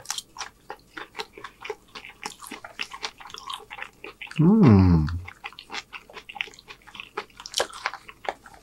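Close-up wet chewing and mouth clicks of a man eating a mouthful of chicken and rice. About halfway through there is a short, louder vocal hum that falls in pitch.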